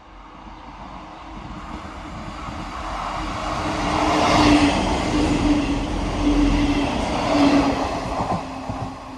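A train passing by. It grows louder over the first few seconds, is loudest for a few seconds in the middle with a steady hum under the rail noise, then falls away near the end.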